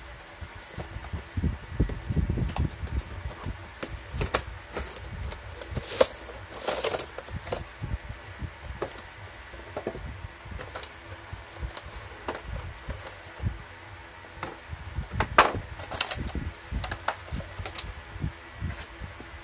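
Handling noise with scattered small clicks, taps and knocks, the sharpest about six seconds in and again about fifteen seconds in, over low rumbling rub noise.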